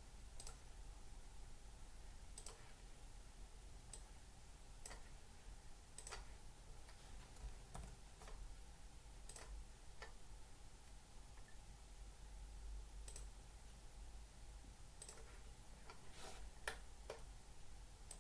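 Faint, scattered clicks of a computer mouse and keyboard, one every second or two with a quick cluster near the end, over a low steady hum.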